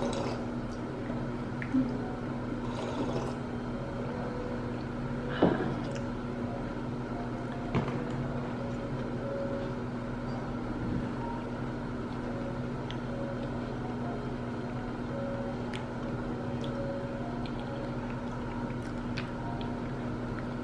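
Steady low hum of restaurant room tone, with a few light clicks and taps, the sharpest about five seconds in.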